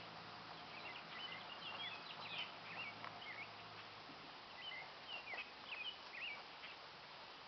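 Birds chirping: many short, quick rising and falling chirps, in a busy spell over the first three seconds and another a little past the middle, with a faint steady hum underneath in the first half.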